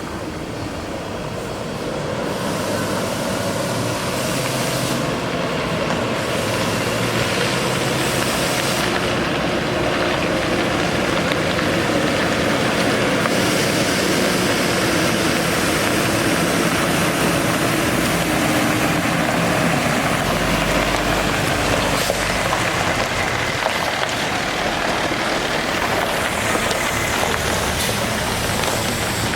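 Water truck's Cummins 6.7L ISB diesel running at raised throttle to drive the PTO water pump, over a steady rush of water spraying from the spray heads. It gets louder about two seconds in.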